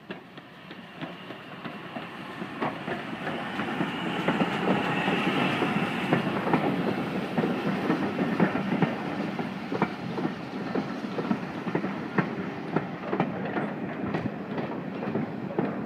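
A train hauled by GWR 5600-class steam tank locomotive 6695 passing close by, its wheels clattering over the rail joints. The sound builds over the first few seconds and then stays loud, with a brief higher squeal or hiss a few seconds in.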